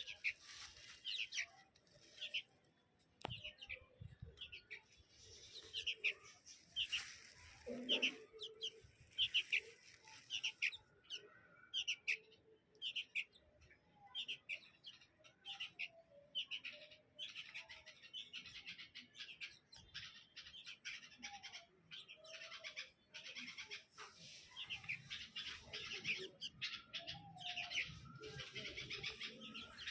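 Bulbuls chirping: many short, quick calls in an uneven run, busier near the end.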